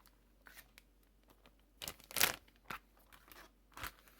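Slime being pressed and pulled by hand, giving a few short sticky crackles and squelches, the loudest about two seconds in.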